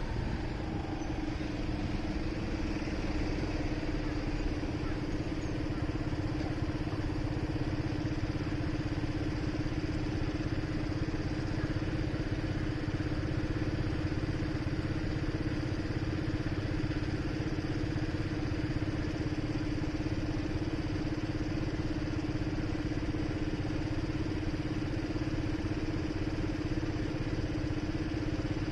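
Motorcycle engine idling steadily at one even pitch, the bike standing still with no wind noise.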